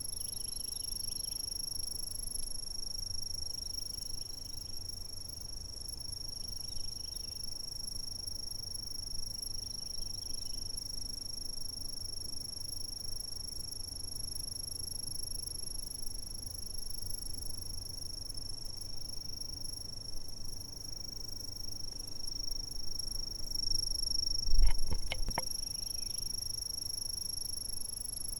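Insects chirring in one continuous, unbroken high-pitched tone over a low rumble. A few knocks come near the end.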